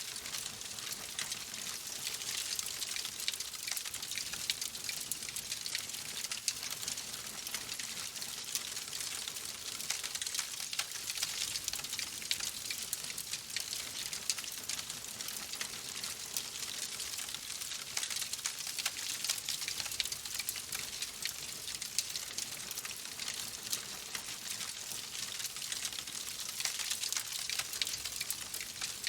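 Fireplace fire crackling: a steady hiss thick with small, sharp pops.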